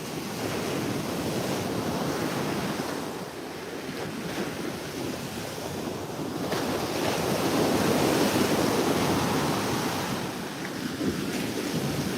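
Ocean surf washing on a beach, with wind buffeting the microphone. The rush of the waves swells to its loudest about eight seconds in, then eases off.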